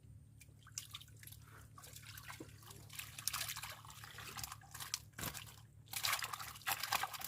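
Water splashing and dripping in irregular bursts, growing louder about three seconds in and again near the end, over a steady low hum.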